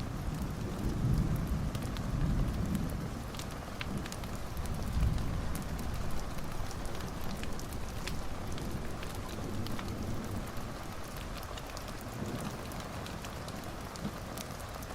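Wood fire crackling in a fireplace, with sporadic sharp pops over a steady hiss and low rumbling swells in the first half.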